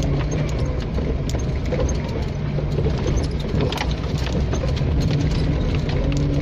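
4x4 vehicle's engine running steadily while driving off-road, with scattered knocks and rattles as it goes over rough ground.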